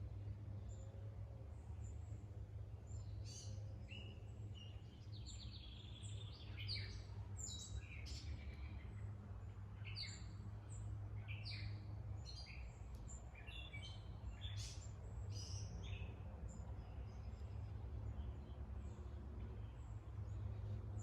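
Wild songbirds chirping and calling outdoors, with many short high calls and a brief rapid trill, busiest in the middle, over a steady low rumble.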